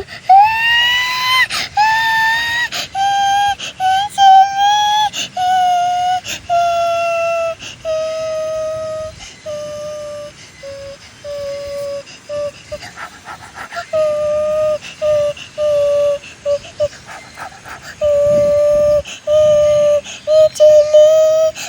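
A long run of whistle-like pitched notes, each a fraction of a second to about a second long. The first glides upward, and later notes step down and settle around one pitch.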